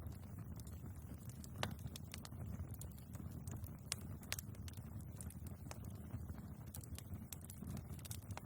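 Wood fire burning in a fireplace: a steady low rumble of flames with scattered sharp crackles and pops from the logs, the loudest pop about one and a half seconds in and another near four seconds.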